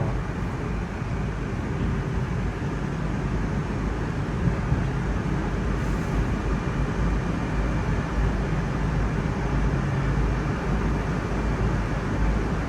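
Moscow Metro train running, heard from inside the car as it approaches a station: a steady low rumble with rail and running noise.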